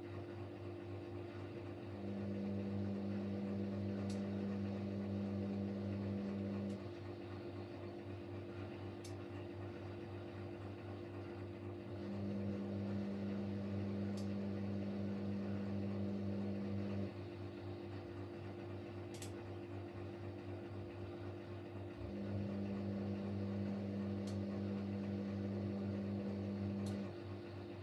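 Siemens Siwamat Plus 574 front-loading washing machine between intermediate spins: a steady hum runs underneath, while the drum motor comes on three times for about five seconds each, with pauses of about five seconds between.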